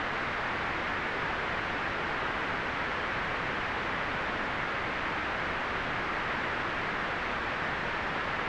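Steady white noise: an even, unbroken hiss, brightest in the upper middle range and rolled off in the highest treble, with no change in level.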